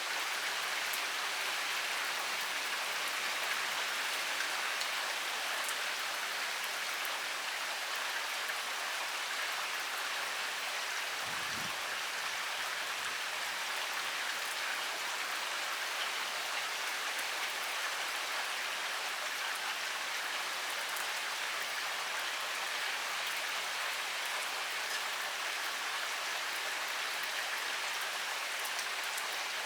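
Heavy rain pouring steadily, an even hiss of many drops striking a surface, with fine scattered drop ticks. A brief low rumble about twelve seconds in.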